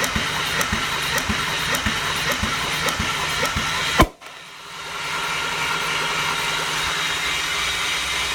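The Chevrolet Epica's X20D1 2.0 inline-six engine being turned over for a compression test, with an even pulse about twice a second. About four seconds in it stops with a sharp click, and a steady mechanical hum takes over.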